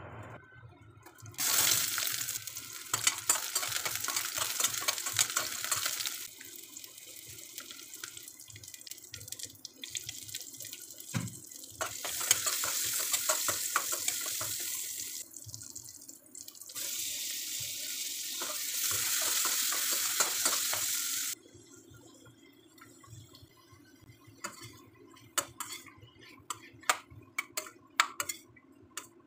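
Shallots and spices sizzling in hot oil in a stainless steel pan, in three long stretches of loud hissing, while being stirred with a metal spatula. Toward the end the hiss stops and only scattered clicks of the spatula against the pan are heard as chopped vegetables are stirred.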